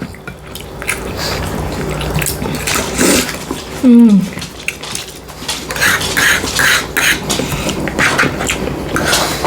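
Close-miked eating sounds: chewing and wet mouth smacks with clicks of cutlery on a plate, and a short vocal sound about four seconds in that is the loudest moment.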